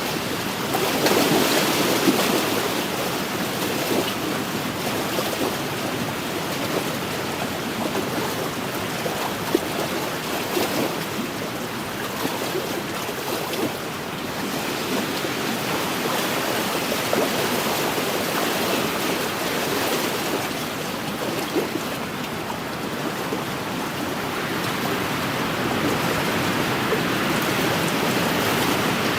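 Wind-driven waves on a lake, lapping and washing against the shore in a steady rush of water noise that swells and eases gently, with wind.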